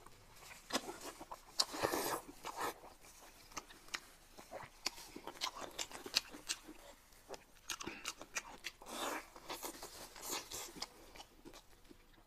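Close-up mukbang eating sounds: irregular chewing and lip smacking with scattered sharp little clicks and crunches as braised meat is bitten and chewed.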